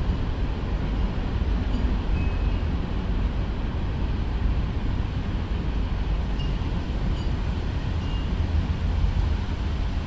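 Wind buffeting the microphone: a steady low rumble, with a few faint short high chirps scattered through it.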